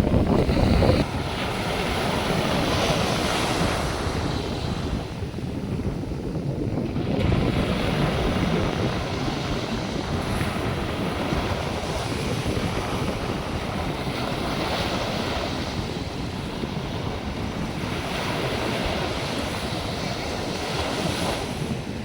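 North Sea surf washing onto the beach in a steady rush, with wind buffeting the microphone, loudest in the first second.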